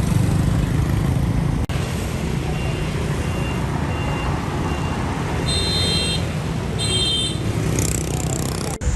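Box truck engine running steadily, with a row of short, evenly spaced electronic beeps near the middle and then two longer, higher beeping tones, typical of a truck's reversing alarm.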